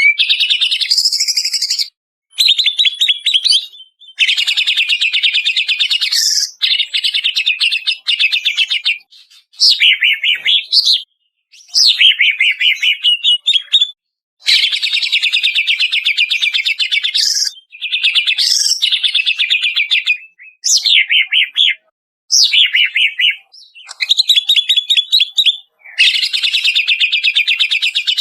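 Greater green leafbird (cucak ijo) singing: fast rattling trills and sharp sweeping notes in phrases of one to four seconds, broken by short pauses.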